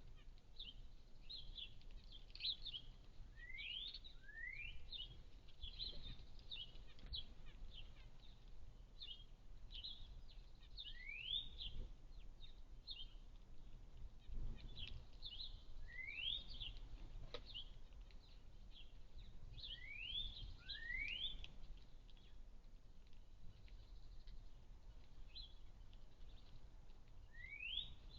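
A flock of sparrows chirping continually in short, high chirps, with a rising call every few seconds, over a low rumble of background noise.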